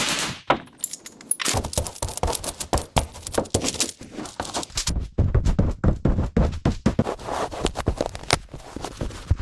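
A rapid, irregular run of knocks, clicks and short scrapes.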